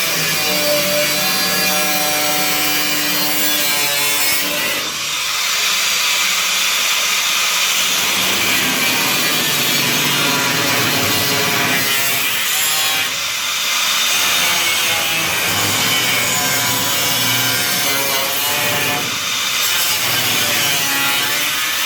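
Power tool cutting through a sheet-steel car floor panel, running steadily with a few brief let-ups as the cut goes on.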